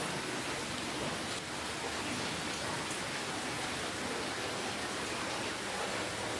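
Steady rainfall, an even hiss of rain with faint individual drops pattering on a surface.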